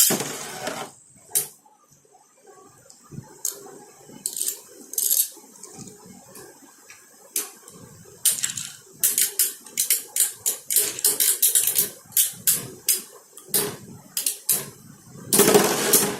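Metal Fight Beyblade tops, L-Drago Destructor against a fake Bull, spinning and colliding in a stadium: a burst of noise at the start as they are launched, then a run of sharp metallic clicks and clinks as they strike each other, coming thick and fast after about eight seconds, with another rush of noise near the end.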